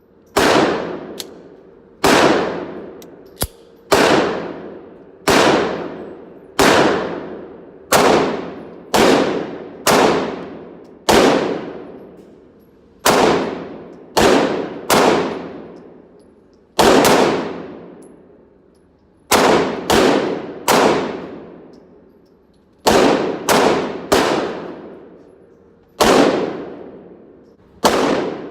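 A 9mm pistol firing about twenty shots at a slow, steady pace, roughly one every one to two seconds. Each sharp report is followed by a long ringing tail.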